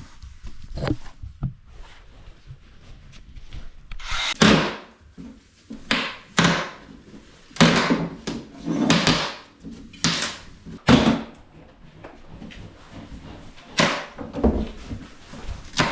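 A series of irregular knocks, bangs and scraping strokes, about a dozen, loudest from about four seconds in onward, like objects being handled and knocked about.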